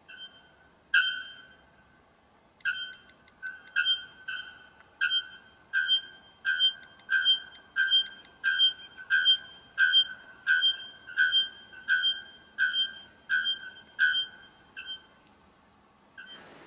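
Bellbird, named as a white bellbird, calling: one loud ringing bell-like note, then a long, evenly spaced run of about twenty short metallic notes at about one and a half a second, each held at one pitch.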